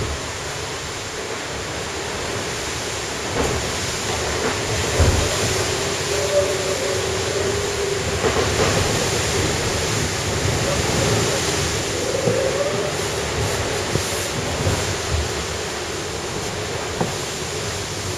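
Steady rush of sea water and wind aboard an IMOCA racing yacht under way. A wavering mid-pitched hum runs through the middle of it, with a few knocks.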